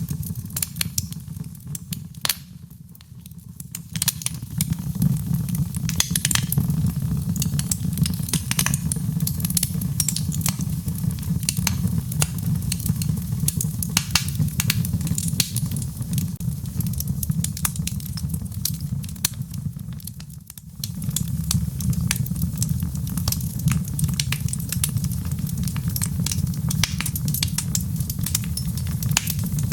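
Fire in a fireplace crackling, with dense irregular pops and snaps over a steady low rumble of flames. It turns briefly quieter around three seconds in and again about two-thirds of the way through.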